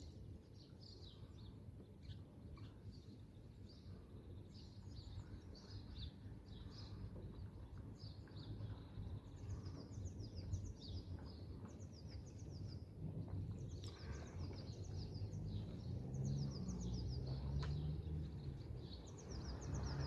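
Small birds chirping throughout in quick runs of short high notes, over a steady low rumble that swells a little near the end.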